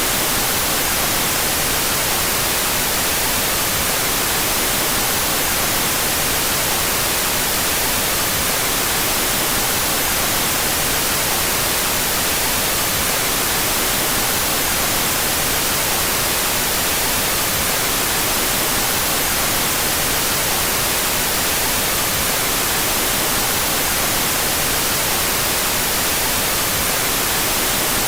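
Steady synthetic white noise: an unchanging, even hiss across the whole range, brightest in the treble, with its two stereo channels played out of phase.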